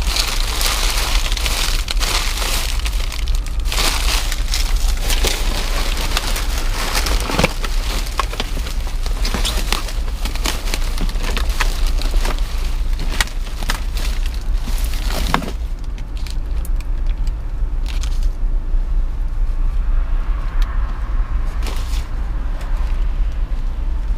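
Trash being rummaged through in a dumpster: dense crackling, rustling and clicks of bags and loose items being handled, thinning out about fifteen seconds in, over a steady low rumble.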